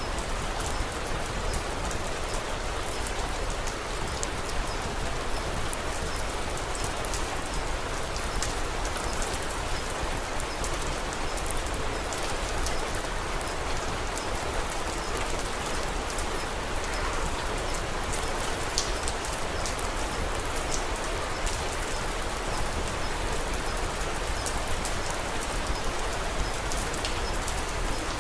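Steady rain falling, with scattered small sharp clicks over it.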